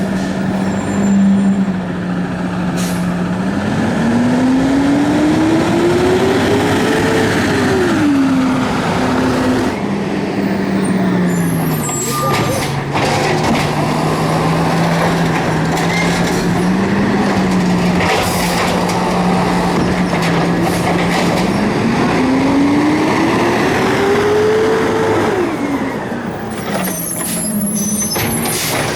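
City garbage truck engine running steadily, twice revving up smoothly for a few seconds and dropping back, with a few short hisses of air from its air system.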